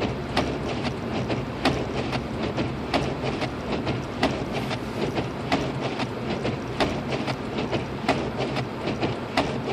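Steady drone inside a Lexus IS250 AWD driving on a snow-covered road, with a string of sharp ticks about two to three a second.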